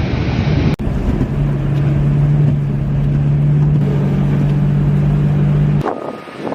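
Rushing noise, then a steady low motor hum from about a second in that stops abruptly near the end, followed by quieter, patchy noise.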